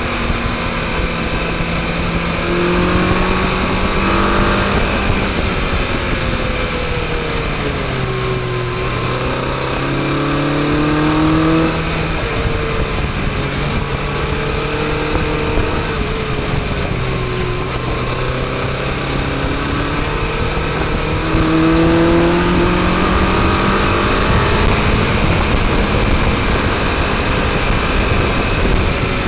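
Motorcycle engine heard from on board, its speed falling twice, about eight and seventeen seconds in, and climbing again each time, over a steady rush of noise.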